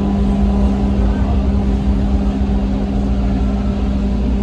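Bombardier T1 subway train heard from inside the car as it pulls into a station: a steady low rumble with a constant hum.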